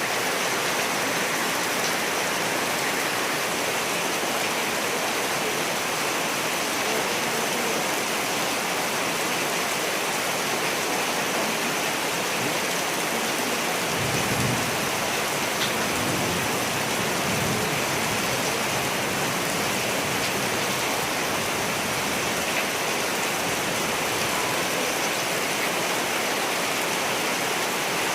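Steady rain, an even hiss, with a low rumble of thunder about halfway through.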